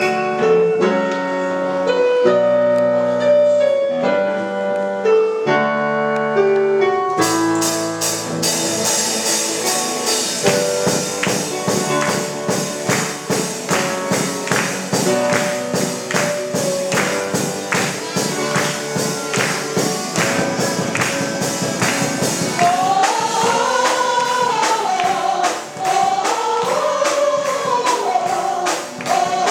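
Gospel song intro: sustained keyboard chords open it, a band with drums and tambourine comes in about seven seconds in, and voices start singing the melody in the last quarter.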